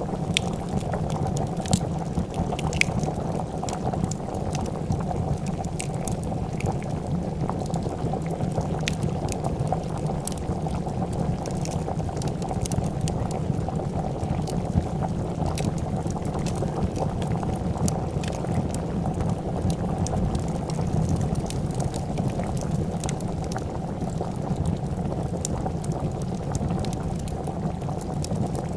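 A pot of soup bubbling at a steady boil, with scattered sharp crackles and pops from a wood fire.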